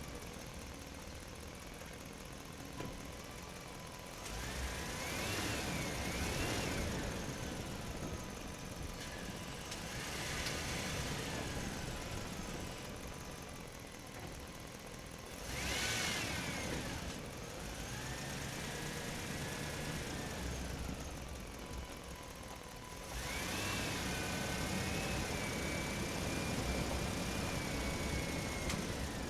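Toy vehicles running. A whine rises and falls in pitch in three louder spells, the last lasting from about two-thirds of the way in to the end, over a steady running noise.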